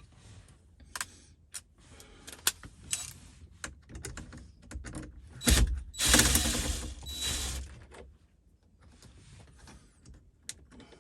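Clicks and taps of tools and plastic trim being handled. About five seconds in, a cordless drill runs for about two seconds, backing out one of the screws that hold the car radio.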